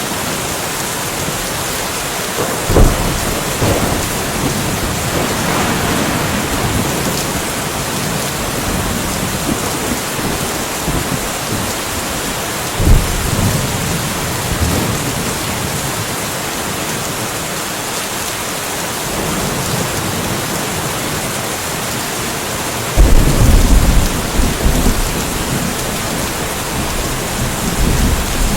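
Steady rain hiss with thunder: sharp low cracks about three seconds and thirteen seconds in, and a longer rolling rumble from about twenty-three seconds, the loudest part.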